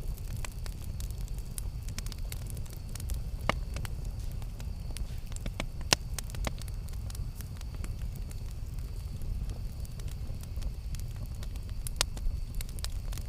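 Campfire burning with a steady low rumble and frequent sharp crackles and pops from the burning wood, a few louder pops standing out.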